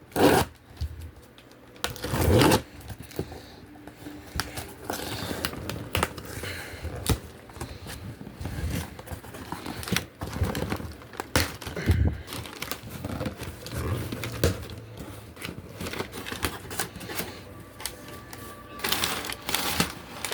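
A shipping package being handled and opened by hand: cardboard and plastic packaging rustling, crinkling and tearing, with many scattered clicks and knocks.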